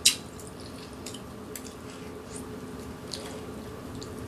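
Eating with chopsticks: one sharp click of the chopsticks right at the start, then a few faint wet clicks of chewing. A steady low hum runs underneath.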